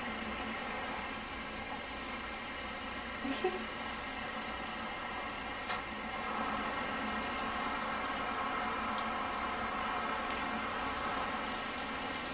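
Shower running: a steady hiss of water spray, with a sharp click about six seconds in.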